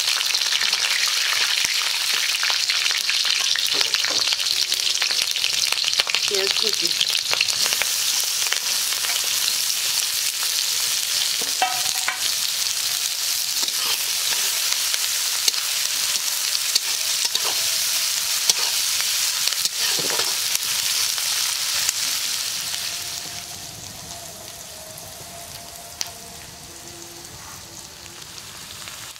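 Green chillies and chopped onions sizzling in hot oil in a steel wok, stirred with a spatula, with scattered clicks and scrapes over a dense hiss. The sizzle drops much quieter a little past three quarters of the way through.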